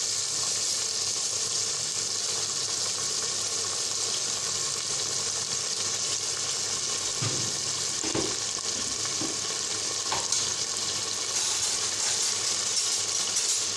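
Boiled beef frying in oil in a pressure-cooker pot, a steady sizzle now that its cooking water has dried off, with a few light knocks from a metal slotted spoon stirring about halfway through.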